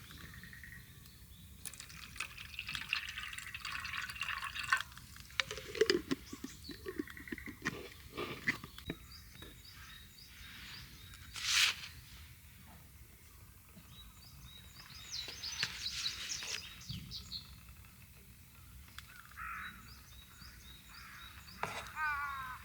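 Liquid being poured, with scattered clinks and knocks of handled utensils.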